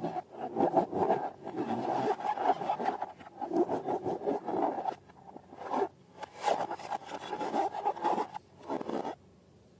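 Irregular rubbing and scraping strokes from hands working rubber balloons and slime, stopping about nine seconds in.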